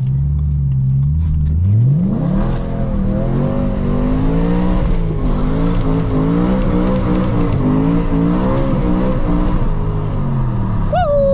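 BMW E92 M3's S65 V8 engine running steadily, then revving up about two seconds in and rising and falling in pitch under throttle, easing off near the end. A short, high, falling squeal comes right at the end.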